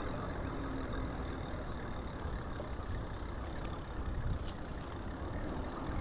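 Steady low rumble of vehicle noise, with no distinct event standing out.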